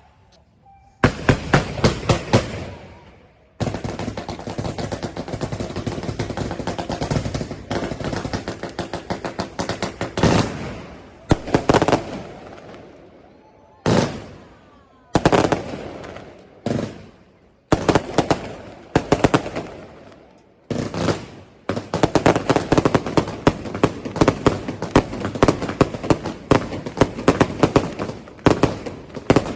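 Fireworks going off in rapid volleys of sharp bangs and crackles, like machine-gun fire, with brief pauses between volleys.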